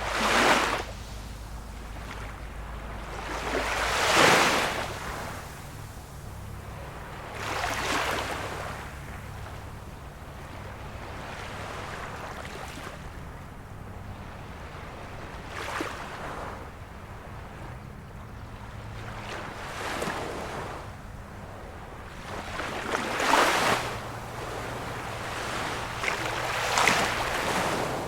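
Small waves of a calm sea washing in. Each wave is a soft rush of water that swells and fades, coming every three to eight seconds; the loudest is about four seconds in.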